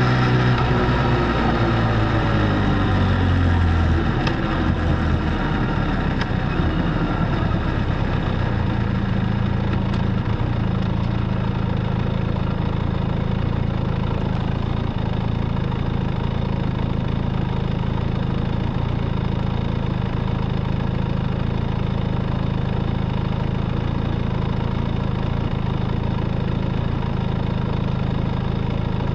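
Benelli Leoncino 500's parallel-twin engine through its stock exhaust, the revs falling over the first few seconds and then settling into a steady, even note.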